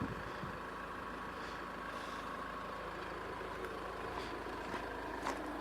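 A vehicle engine idling: a steady, faint hum that does not change.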